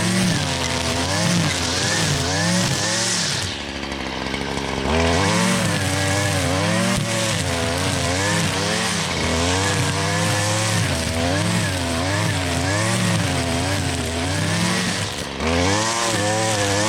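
Gas string trimmer (weed eater) engine revving up and down as it cuts through tall grass and weeds. It eases off for about a second roughly three and a half seconds in, and again briefly near the end.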